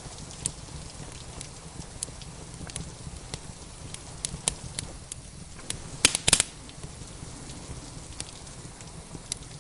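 Wood fire crackling in a fireplace: scattered sharp crackles and pops over a steady low rumble, with a quick burst of louder pops about six seconds in.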